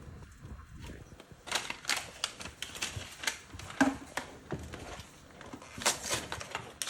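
Dry yellow rice mix being shaken out of its packet into a pot, with irregular light clicks and packet rustles.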